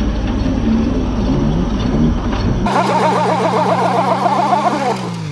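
Mini truck engine running with a wavering, rumbling note. About two and a half seconds in it cuts to a steadier engine hum with a fluttering pattern above it, which fades near the end.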